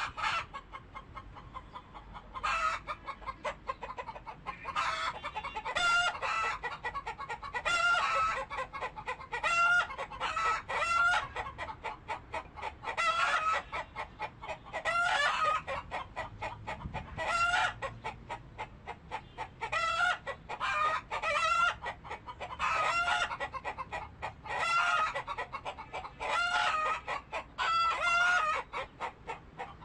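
Chickens clucking, short pulsed calls repeating every second or two.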